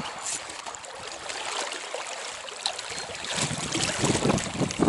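Stream water running and rushing, getting louder and more uneven about three seconds in.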